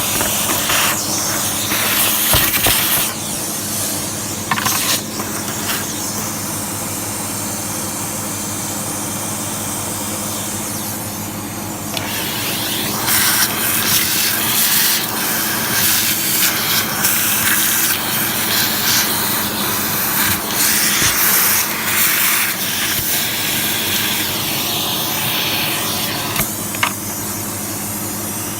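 Sebo X1 upright vacuum cleaner running steadily while sucking dust and dirt out of a grimy old vacuum. A rushing hiss rises and falls many times as the nozzle works over the dirt.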